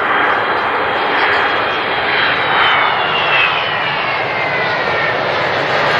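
Boeing 777-300 jet engines running loud, a dense rush of engine noise with a high whine that slides down in pitch over the second half.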